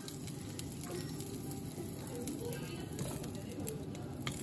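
Food sizzling and crackling as it cooks on the stove, a steady frying hiss with scattered small pops.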